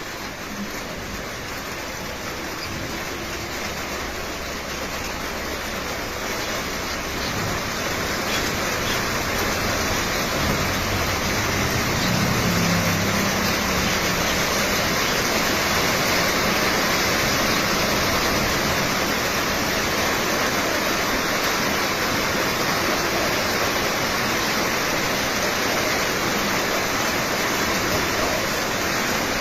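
Steady rushing of water, building gradually over the first ten seconds or so and then holding even.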